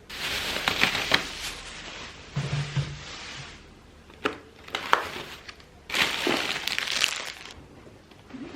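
Plastic bags crinkling and rustling in three bursts, with a few sharp clicks among them.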